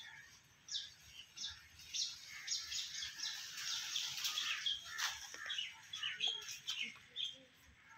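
Small birds chirping, many short high calls overlapping, busiest in the middle.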